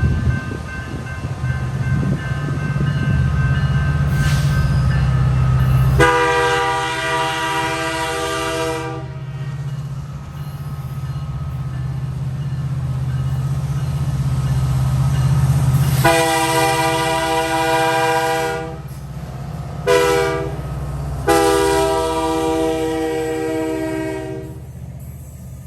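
Diesel freight locomotive sounding its multi-note horn in the grade-crossing pattern: two long blasts, one short, one long. Its engine rumbles underneath throughout.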